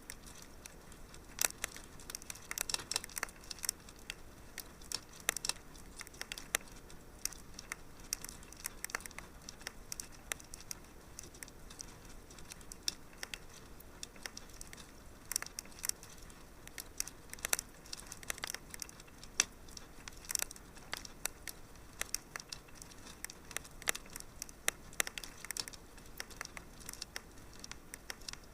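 Wood fire burning in a fireplace, crackling with irregular small pops, several a second, over a faint steady hiss.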